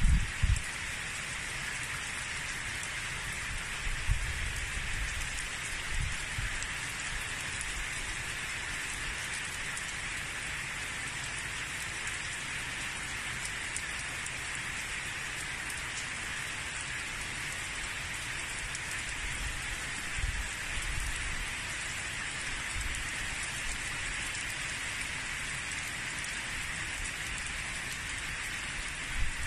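Steady rain falling, an even hiss throughout, with a few soft low bumps about four, six and twenty seconds in.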